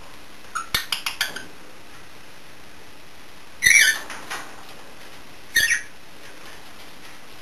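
Pet budgie and cockatiels calling: a quick run of short clicks and chirps about half a second in, then two louder, sharp chirps, one near the middle and one later on.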